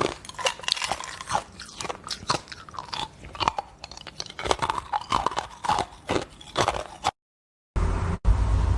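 Shaved ice being crunched and chewed close to the microphone, many irregular crisp crunches. They cut off abruptly about seven seconds in, and after a short silence a louder, steadier noise with a heavy low rumble begins.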